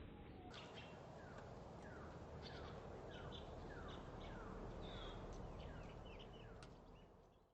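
Faint outdoor ambience with a bird calling: a run of short downward-slurred notes, about two a second, among scattered high chips, over a low steady hum, fading out near the end.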